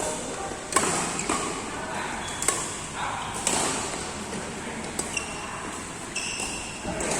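Badminton rally: rackets hitting the shuttlecock, with a sharp strike every second or two. A few short high squeaks come in the middle.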